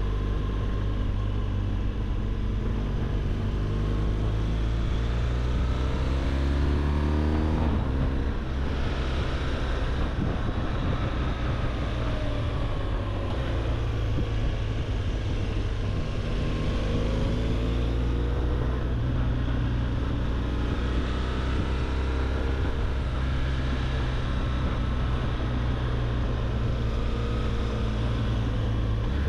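BMW R1200GS boxer-twin engine running under way, its pitch rising several times as it pulls up through the revs, with a sudden drop about eight seconds in at a gear change, over steady rushing noise.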